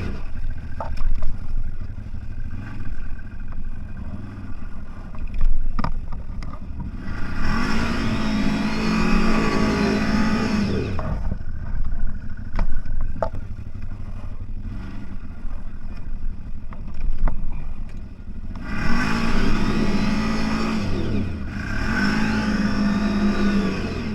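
CFMOTO 1000 off-road vehicle's engine revving in repeated surges, its pitch climbing and falling, with idling or low running between. Scattered knocks and clatter come through over rough ground.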